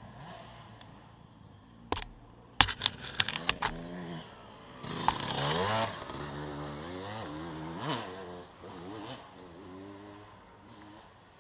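Motocross dirt bike engines revving up and down through the gears, with pitch rising and falling repeatedly as bikes accelerate and shift. A quick run of sharp clicks or knocks about two to three and a half seconds in, and a loud rush of noise with a high rev around five seconds in.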